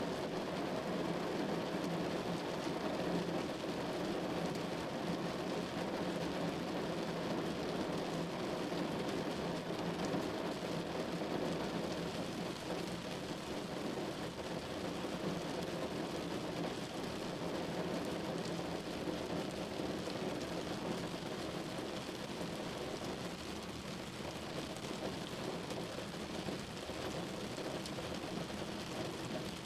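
Steady rain falling on a window pane, a dense even patter of drops without a break.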